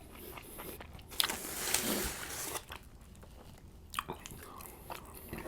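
Close-up biting and chewing of a Subway tuna sub loaded with cucumber, onion and bell pepper, with a crunchy stretch after about a second and a single sharp click near the end.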